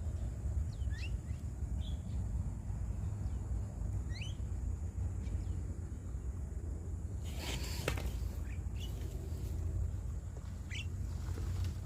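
Birds giving short, rising chirps here and there over a steady low rumble, with a brief burst of rustling noise about seven seconds in.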